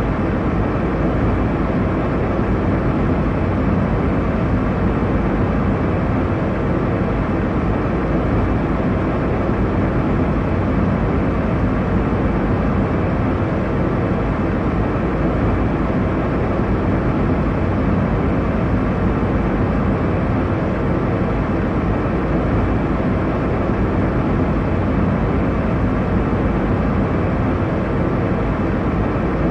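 Airliner cabin noise heard from inside the passenger cabin: the steady, deep rushing of jet engines and airflow over the fuselage in cruise, unchanging throughout.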